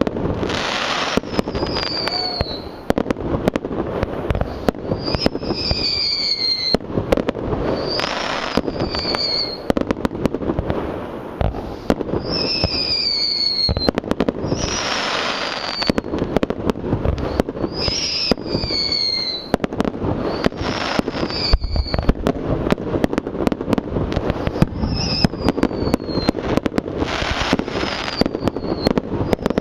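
Wedding fireworks display going off continuously: dense crackling and sharp bangs, with short falling whistles every few seconds.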